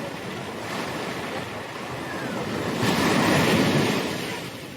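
Pacific Ocean surf: a wave breaks and washes in, swelling to its loudest about three seconds in and then fading.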